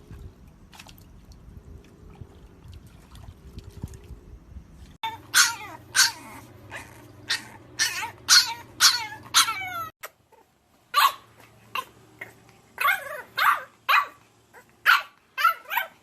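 French bulldog puppies barking and yipping in quick series of short barks, starting about five seconds in, with a brief break near the middle. The first few seconds hold only faint background noise.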